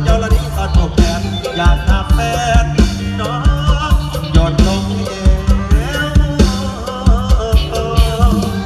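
Mor lam band music: a steady, driving drum-kit beat with bass, and a wavering melody line above it.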